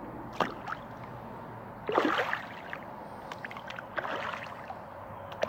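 Short splashes in water, the loudest about two seconds in and a smaller one near four seconds, over a steady low background.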